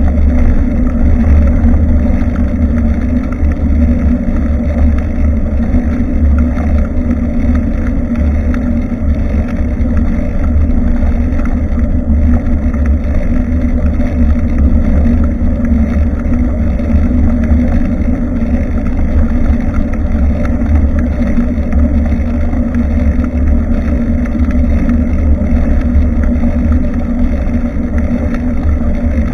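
Steady low rumble of wind buffeting and road vibration, picked up by a bicycle-mounted Nikkei Extreme X6 action camera while riding.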